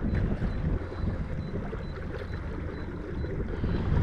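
Wind rumbling on the microphone of a kayak under way on the water, with a faint steady high-pitched whine.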